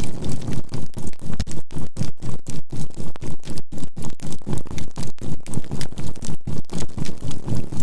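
A synthetic healing tone with binaural beats, swelling and fading evenly about four times a second, mixed with the crackle and pops of burning charcoal in a bonfire.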